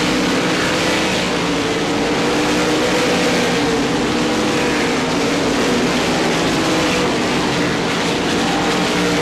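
A pack of RaceSaver sprint cars' 305-cubic-inch V8 engines running at racing speed, several engine notes overlapping and rising and falling together as the cars go around the oval.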